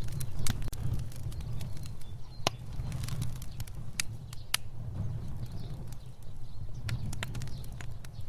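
Fire burning: irregular sharp crackles and pops over a steady low rumble of flame.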